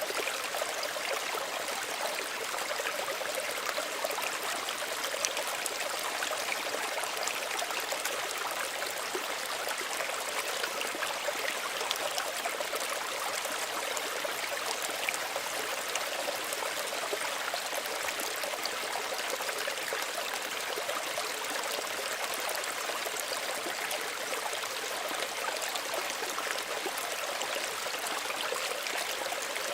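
Small stream running over stones, a steady babble of water with fine splashes and trickles.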